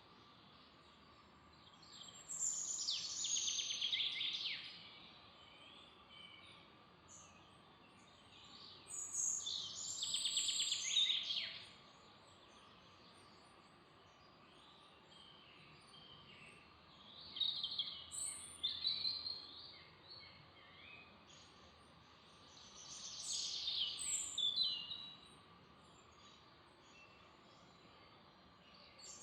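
A songbird singing: four phrases of two to three seconds each, every six or seven seconds, each a fast run of high notes falling in pitch. A quiet steady background hiss lies underneath.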